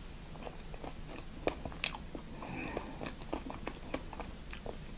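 Close-miked chewing of fast food: irregular wet mouth clicks and soft crunches, with two sharper bites about a second and a half and two seconds in.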